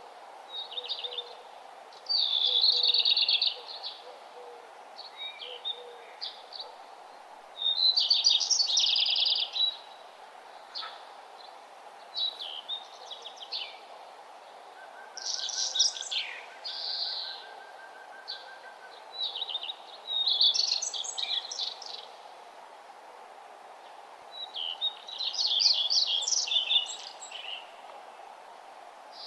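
Songbirds singing rapid, trilling phrases of a second or two, one every few seconds, over a steady background hiss.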